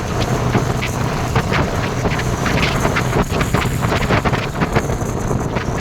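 Wind buffeting the microphone of a moving Honda CBR motorcycle, over the low, steady hum of its engine, with frequent short crackles.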